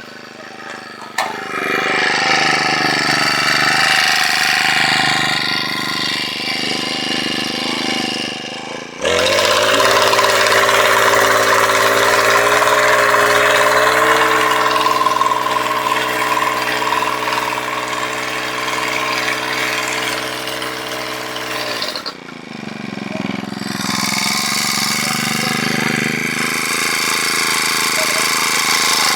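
An engine running. About nine seconds in a louder, steady-pitched drone starts suddenly, and it cuts off abruptly about twenty-two seconds in.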